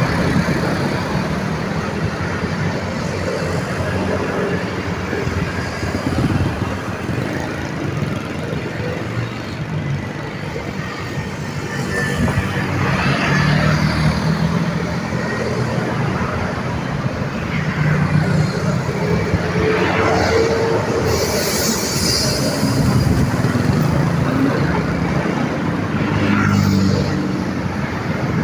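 Steady roadside traffic: cars, motorbikes and heavier trucks and buses passing with engine hum rising and falling as they go by. A brief hissing sound about two-thirds of the way in.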